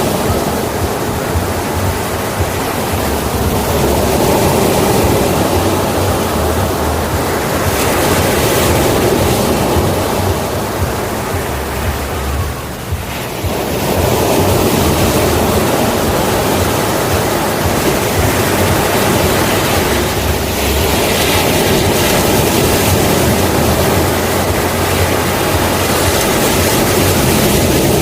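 Sea waves breaking and washing ashore, a continuous loud rush of surf that swells and eases, dipping briefly about halfway through.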